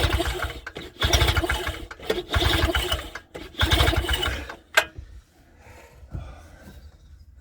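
Two-stroke outboard motor being pull-started, four quick pulls of the recoil cord about a second apart, the engine turning over without catching. A sharp click just under five seconds in as the pulls stop.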